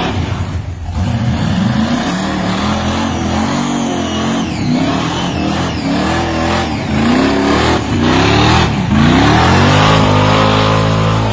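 1957 Chevrolet's engine revving hard up and down again and again during a burnout, the tyres spinning against the concrete; from about nine seconds in the revs are held high and steady.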